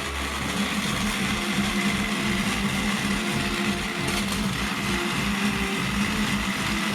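Battery-powered toy train motors whirring steadily, with a fast low pulsing under the hum.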